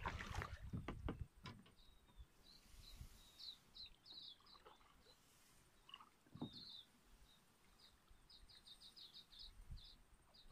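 Small bird chirping faintly: scattered short high chirps, then a quick run of about eight near the end, over near silence. A few sharp knocks in the first second and a low thud about six and a half seconds in, from gear being handled.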